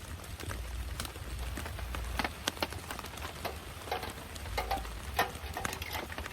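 Rain falling, with many irregular drops tapping sharply on a surface over a steady low rumble.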